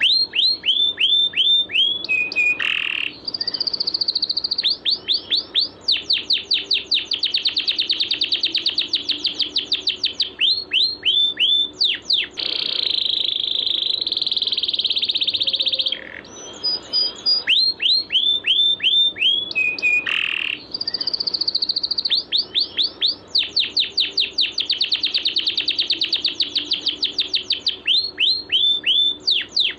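Songbird calls played as a looped masteran training track: quick runs of sharp, downward-sweeping chirps over a continuous buzzing trill. The same sequence repeats about every 17 seconds.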